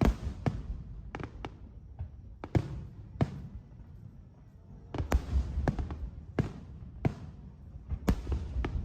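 Aerial fireworks shells bursting in quick succession: sharp booms, several followed by a rolling echo.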